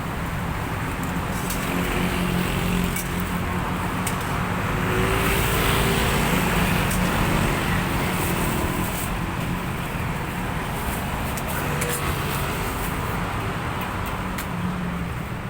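Steady road traffic running past, swelling as a vehicle goes by about five seconds in.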